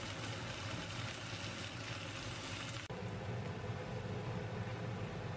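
Potato slices and vegetables sizzling in a hot iron wok over a steady low hum. About three seconds in, the sizzling drops away suddenly, leaving the hum and a quieter hiss.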